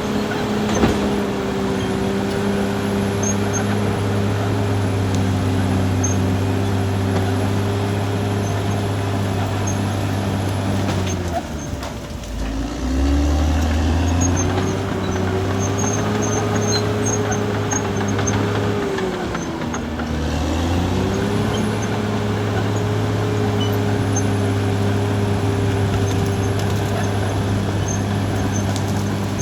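Caterpillar D6R XL bulldozer's diesel engine running steadily at working revs. Its pitch dips and recovers twice, about twelve seconds in and again about twenty seconds in.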